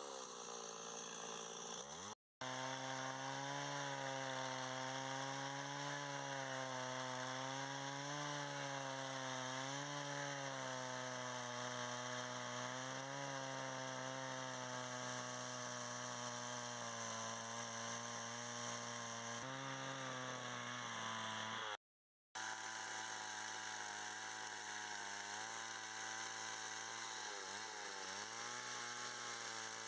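A small engine running steadily, its pitch rising and falling slightly, cut off briefly twice.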